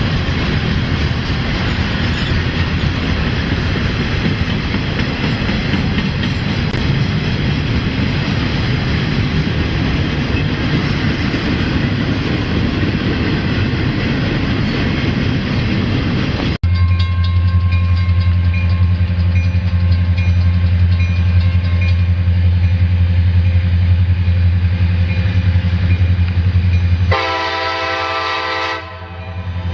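Rumbling noise of a train rolling past, which changes abruptly about halfway through to the steady low drone of a diesel locomotive's engine. Near the end a train horn sounds one short blast of about a second and a half.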